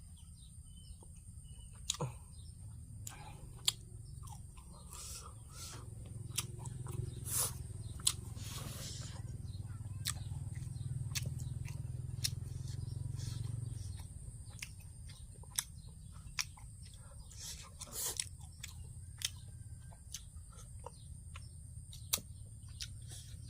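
A person chewing and eating papaya salad and grilled shellfish, with many scattered short clicks and crunches. A low steady hum runs underneath and is louder in the middle stretch.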